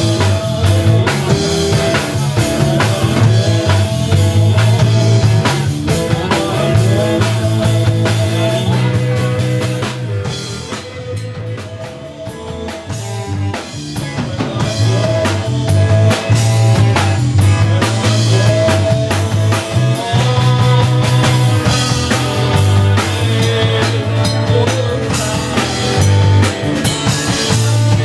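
Live blues-rock band playing an instrumental passage: electric guitar lines over a steady low bass line and a drum kit with snare and bass drum. About ten seconds in the band drops quieter for a few seconds, then builds back to full volume.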